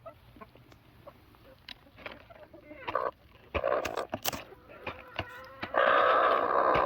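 Chickens clucking, with scattered small clicks and a louder, even rustling noise lasting about a second near the end.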